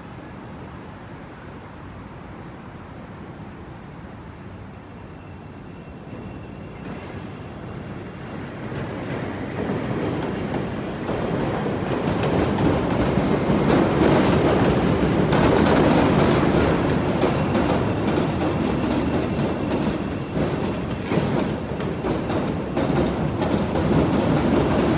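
A CTA 'L' elevated train approaching and passing over the junction's switches, growing louder from about seven seconds in, with its steel wheels clattering and clicking over the rail joints and crossings.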